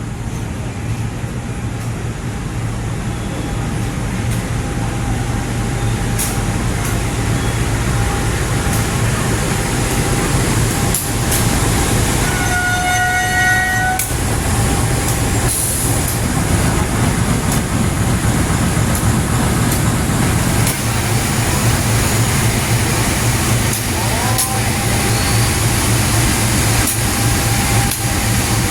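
A train running past with a steady heavy rumble that grows louder over the first several seconds. A horn sounds once for about a second and a half near the middle.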